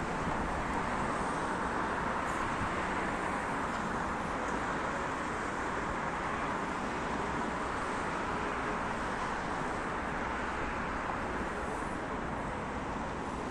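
Steady outdoor background noise: an even rush with no separate crackles, knocks or voices.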